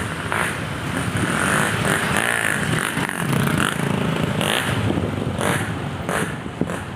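Motor vehicle engines running, with motorcycles among them; the engine pitch rises and falls as they rev and pass.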